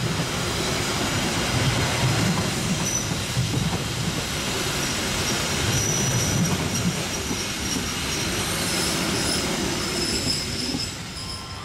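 Harina passenger train running past: a steady rumble of wheels on the rails, with thin high-pitched wheel squeals in the second half. The level drops near the end.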